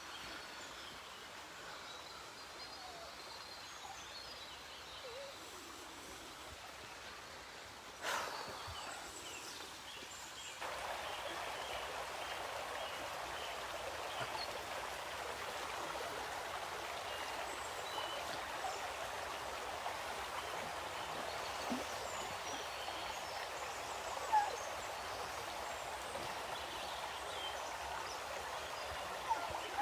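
River water flowing with a steady rush, which grows louder and fuller about ten seconds in. A brief knock sounds about eight seconds in.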